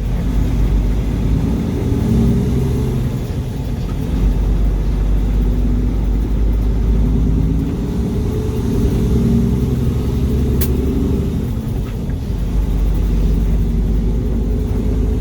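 Mack truck's diesel engine running under way, heard from inside the cab as a steady low rumble whose pitch rises and falls several times with engine speed. A single sharp click about ten seconds in.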